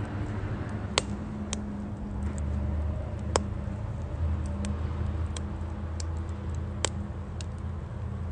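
Firewood burning in a Uniflame Nature Stove Large, crackling with a few sharp pops and scattered lighter ticks over a low, steady rumble.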